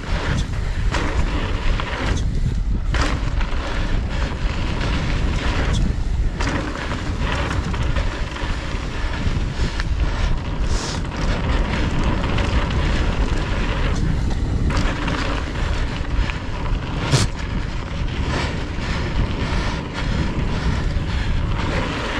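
Wind rushing over a GoPro's microphone on a fast mountain bike descent, over the tyres rolling on dirt and the bike rattling across bumps, with scattered sharp knocks.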